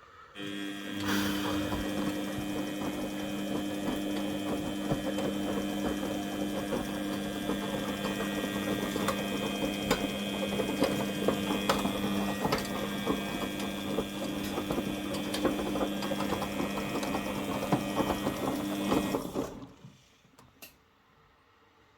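Washing machine's brushed motor running and turning the drum through its drive belt, a steady hum with a dense patter of small clicks and rattles. It starts about a third of a second in and stops about nineteen and a half seconds in, as the motor pauses between drum turns in the wash cycle.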